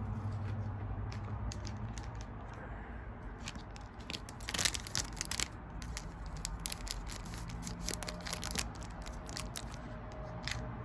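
Pokémon trading cards and foil pack wrappers being handled: scattered crinkling and sharp clicks, busiest for a few seconds starting about four seconds in.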